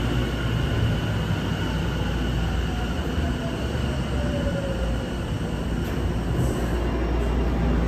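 Tokyu 5050 series electric train pulling into the platform and braking to a stop: steady low rumble of the cars, with a faint whine falling in pitch as it slows.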